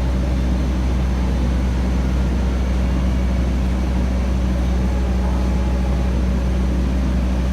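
A train's steady low rumble and engine hum, with no change in pitch or level.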